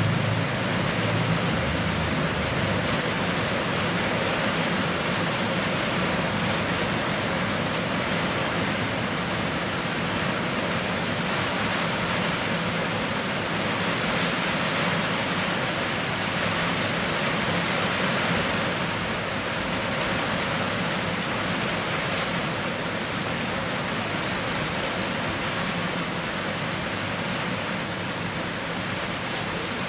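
Steady rain falling on wet, hard-packed ground and puddles: an even hiss of many drops. A low rumble fades out in the first couple of seconds.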